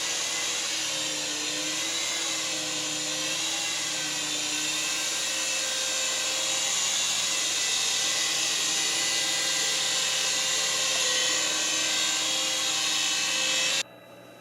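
Syma S108 toy RC helicopter's small electric rotor motors whining steadily, the pitch wavering slightly with the throttle, cut off suddenly near the end.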